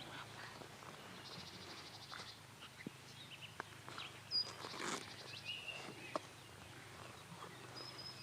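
Quiet outdoor ambience: a brief rapid high trill and a few short whistled bird calls, over scattered soft knocks and rustles from movement around the camp.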